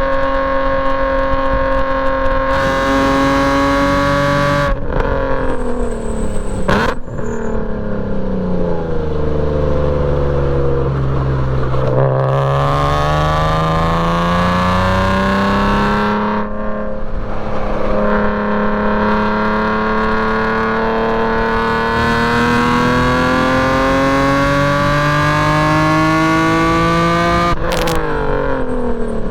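BMW E46 M3's straight-six on a straight-piped exhaust, driven hard on track. It holds high revs, then the pitch breaks and falls for several seconds as the car slows for a corner, then climbs steadily through the gears, with a short break about two-thirds of the way through, before falling again near the end.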